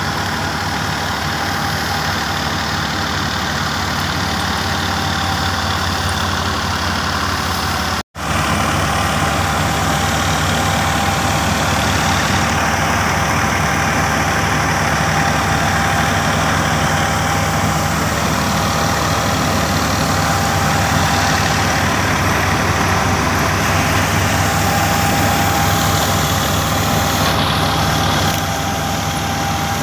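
Massey Ferguson 9500 tractor's diesel engine running at a steady speed, cutting out for a split second about eight seconds in.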